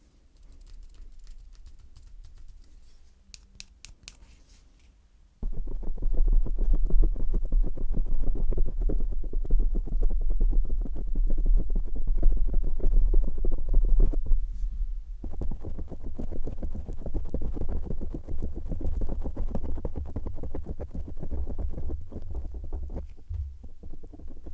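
Something rubbing directly on the microphone: after a few faint clicks, a loud, dense, low rumbling rub begins suddenly about five seconds in and keeps going.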